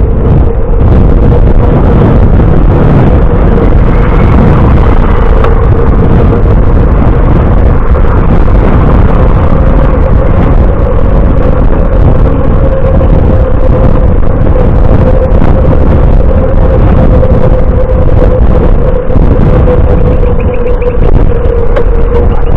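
Loud, steady wind and road rumble on the microphone of a moving bicycle, with a steady mid-pitched hum.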